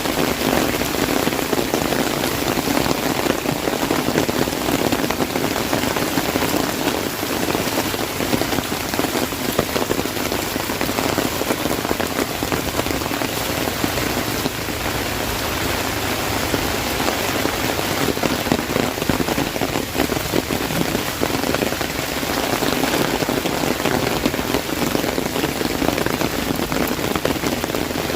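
Heavy rain pattering densely and steadily on an umbrella overhead, with water dripping off it.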